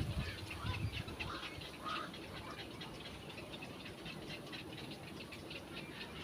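Animal calls: a dense patter of faint, high ticks and chirps, with a few short, lower calls in the first two seconds.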